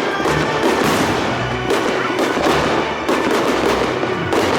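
Fireworks display: a dense, continuous run of shell bursts and crackling, with music playing along.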